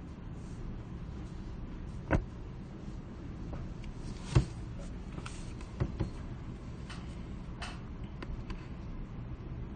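Library ambience: a steady low hum of the room, with a few scattered knocks and light clicks. The loudest knock comes about four and a half seconds in, and two more come close together about six seconds in.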